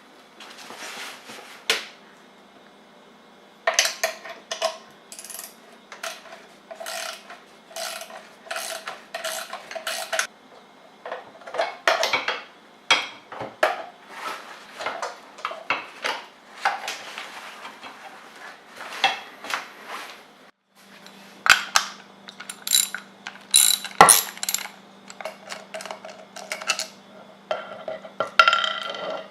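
Irregular clicks, clanks and ratcheting of small metal mechanical parts being handled, as in the pawls and housing of a paramotor's recoil pull-starter. A faint low steady hum runs underneath.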